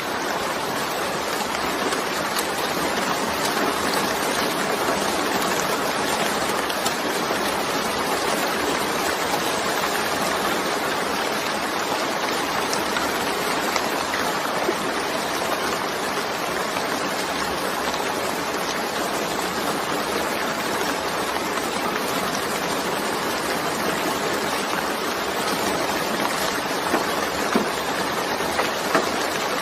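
Steady heavy rain as an even wash of noise, with a few louder drops standing out near the end.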